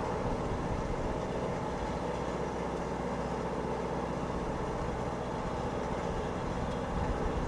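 Distant jet aircraft engines making a steady noise, with wind buffeting the microphone more strongly near the end.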